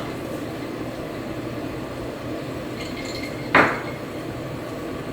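Kitchenware set down on a hard surface with one sharp clatter about three and a half seconds in, over a steady low room hum.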